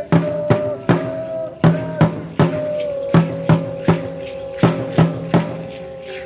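Dance drum beating in repeated groups of three strokes, with a steady held note sounding over the beat.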